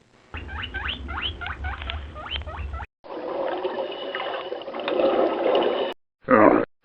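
Animal calls in three short clips: a run of quick rising squeaks, then a different, lower call, then the first of a series of loud repeated calls near the end.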